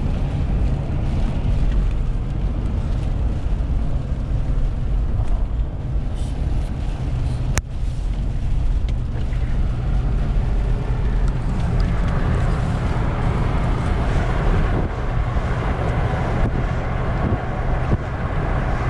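Steady engine and road rumble heard inside a moving car, with a rushing noise of wind and rain on the vehicle that grows louder about two-thirds of the way through. A single sharp click sounds a little before the halfway point.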